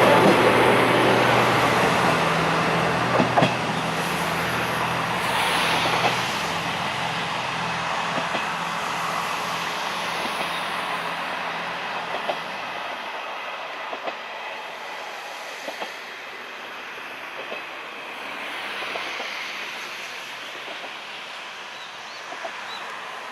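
Two-car KiHa 100 diesel railcar train pulling away from a station, its engine running with a low hum and its wheels clacking over rail joints. Both fade steadily as it moves off; the engine hum dies away about halfway through, leaving only faint, scattered clacks.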